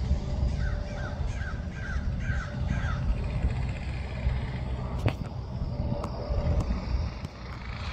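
A bird calling about six times in a quick series over a steady low rumble. A single sharp click comes about five seconds in.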